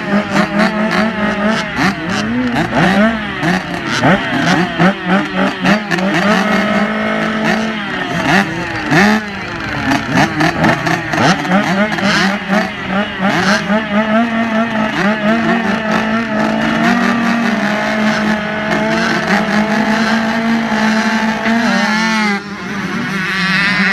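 Several motorcycle engines revving, their pitch rising and falling over and over with throttle and gear changes, over one engine holding a steady pitch.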